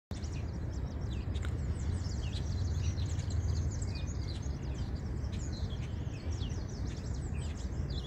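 Birds chirping: many short, quick, high falling chirps in rapid succession, over a steady low background rumble.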